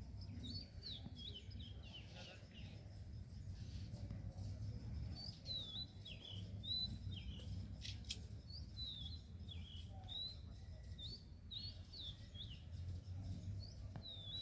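Small birds chirping, many short sliding high notes in clusters, over a steady low rumble. There is one sharp click about eight seconds in.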